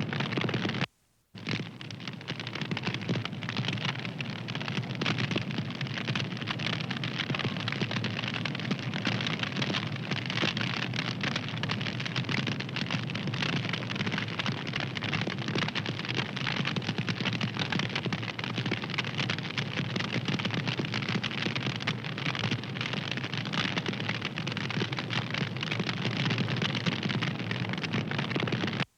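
Wood fire crackling, a steady hiss thick with small pops and snaps, with a brief cut to silence about a second in.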